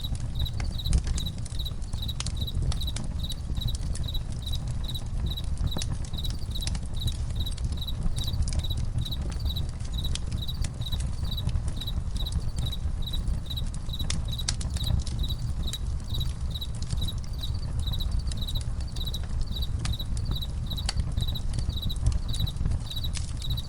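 Campfire crackling, with a low steady rumble and scattered sharp pops. Crickets chirp in an even, unbroken rhythm over it.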